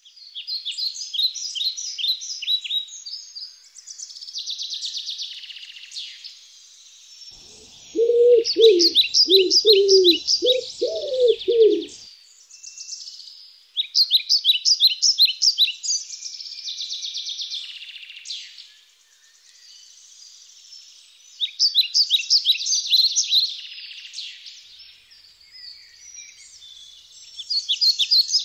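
Birdsong: small birds singing short, fast trilled and chirping phrases that come back every few seconds, with a run of lower cooing calls about eight to twelve seconds in.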